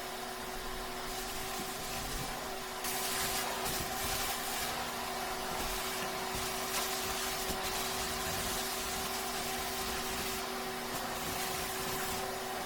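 A steady machine hum with a few constant tones, under a hiss that grows louder about three seconds in and again near the end.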